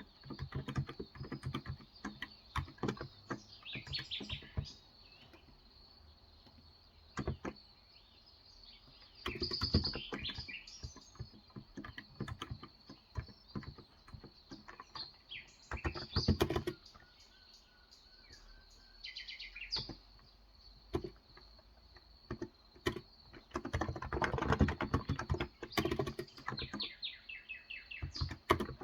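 Typing on a Cox Endeavour electrostatic-capacitive (Topre-style) keyboard with 35 g switches: scattered keystrokes with several short bursts of fast typing. Birds chirp in short series in the background.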